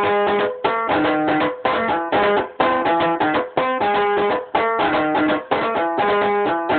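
A rebaba, a plucked string instrument, playing a quick repeating melody of short plucked notes.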